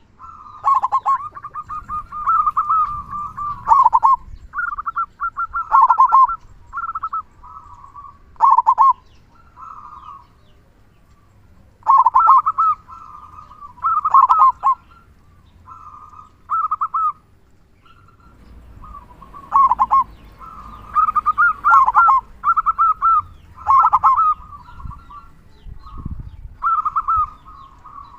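Local zebra dove (perkutut) singing its cooing song: repeated phrases of quick trilled coos, each ending in the full, deep 'kung' note, coming every second or two with a couple of short pauses.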